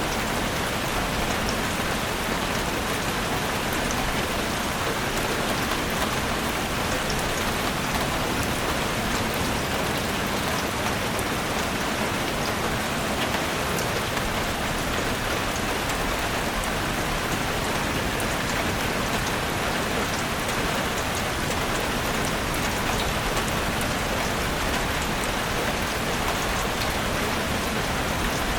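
Steady, even rain falling in a forest, with a constant wash of many fine drop ticks and no change in strength.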